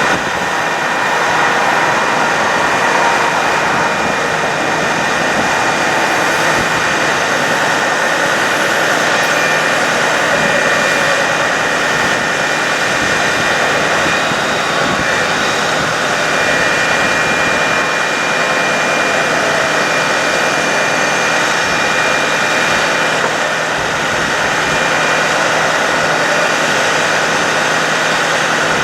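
A 2009 Ford F-550 bucket truck's engine running steadily with the PTO engaged, with a steady high whine over the engine. The level holds even throughout.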